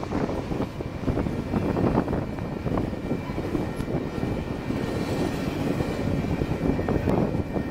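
Double-stack intermodal well cars rolling past: a steady rumble of steel wheels on rail, with quick clicks and clatter.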